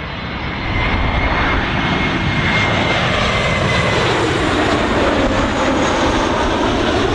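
An airliner's engines running loud as the aircraft passes close by, swelling over the first second and then holding steady, with a high whine that eases slightly down in pitch.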